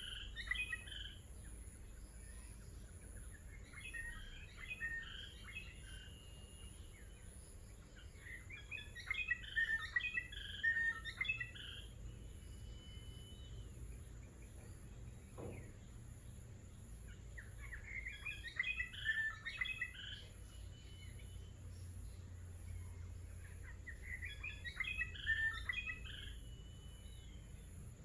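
A songbird singing the same short warbling phrase over and over, about five times, each lasting roughly two seconds and ending in a thin whistle. A steady high-pitched hum runs underneath.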